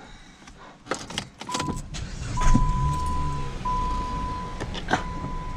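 Handling clicks and knocks, then a car engine starting about a second and a half in and idling. A steady electronic warning tone from the dashboard sounds over it.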